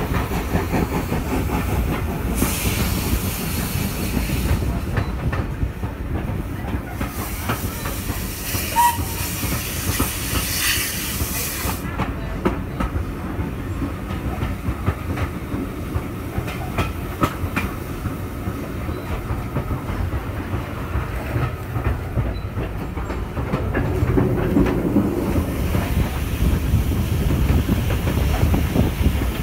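A steam-hauled passenger coach running along the line, heard from its window: a steady low rumble with wheels clicking over the rail joints. Two spells of hiss come in the first twelve seconds, and the rumble swells briefly near the end.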